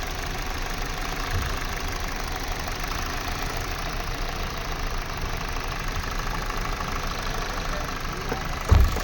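Car engine idling steadily, with one short low thump near the end.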